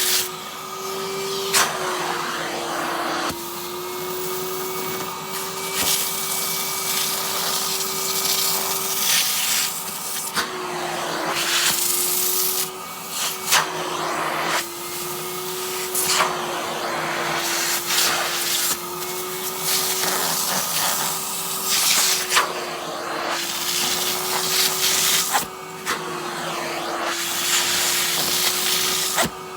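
Henry vacuum cleaner running steadily while its nozzle is worked over a padded down jacket, the suction hiss surging and easing every second or two as the nozzle moves across the fabric, with the motor hum wavering slightly.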